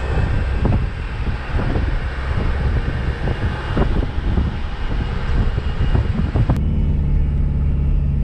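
Vehicle rumble with many irregular low knocks and thumps. It cuts suddenly about six and a half seconds in to a steady, even low engine drone.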